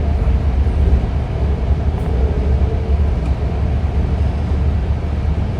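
BART train running, a steady low rumble.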